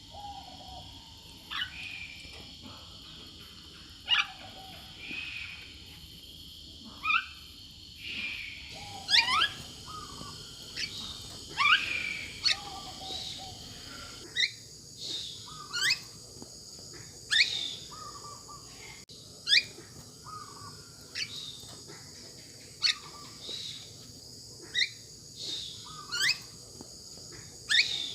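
Bird calling over and over: sharp whistled notes sweeping up in pitch every second or two, some paired with a lower, shorter note, over a steady high-pitched hiss.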